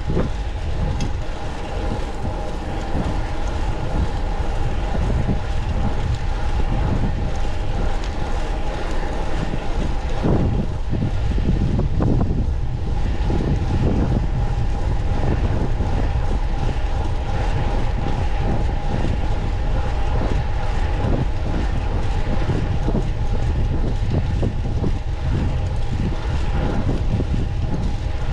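Steady rolling rumble of a Pinarello Pista fixed-gear track bike being ridden on the road, tyre and drivetrain noise with a constant hum.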